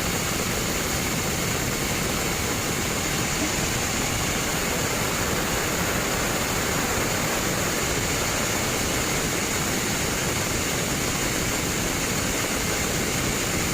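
Sawmill band saw running with a steady, unbroken noise.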